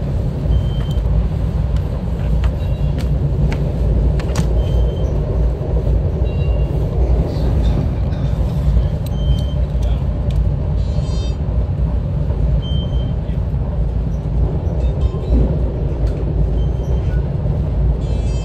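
SEPTA Regional Rail train running, a steady low rumble with scattered light clicks and a brief rapid rattle about eleven seconds in.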